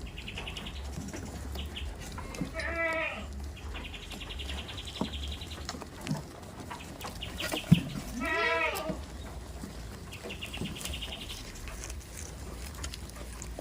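Goats bleating, two wavering calls, the second about halfway through, with a high rapid trill repeating several times between them and a single sharp knock just before the second bleat.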